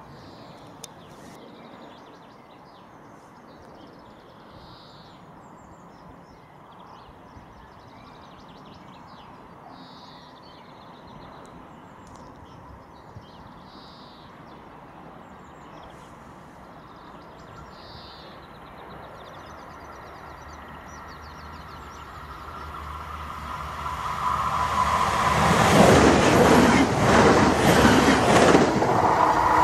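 ICE high-speed electric train approaching and passing at speed: a rush of wheels and air that builds from about two-thirds of the way in to a loud pass near the end, then cuts off suddenly.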